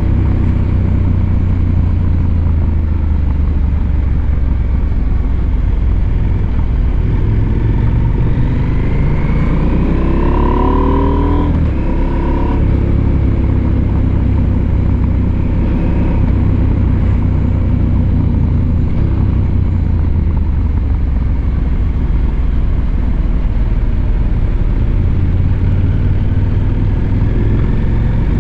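Husqvarna Norden 901's parallel-twin engine running under way with a steady low rumble. About eight seconds in its pitch climbs as it accelerates, breaking off about twelve seconds in.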